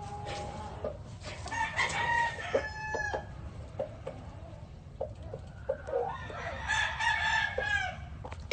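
Gamecock roosters crowing, several overlapping crows in the first three seconds and another long crow from about six seconds in, with short clucks between.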